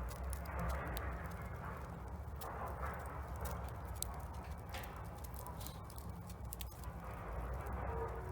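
Wood fire burning in a Solo Stove Bonfire, crackling and popping irregularly over a steady low rumble.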